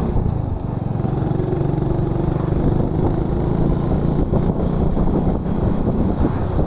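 Motorcycle engine running steadily under a haze of road and wind noise.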